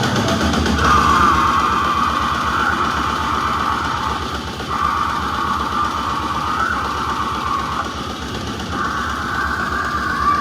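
Live grindcore band playing loud: heavily distorted guitar over fast, dense drumming.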